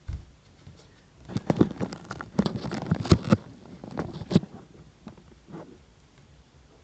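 A quick flurry of knocks, taps and scrapes about a second in, with two more knocks around four seconds, then quiet: handling noise, as of things being moved about.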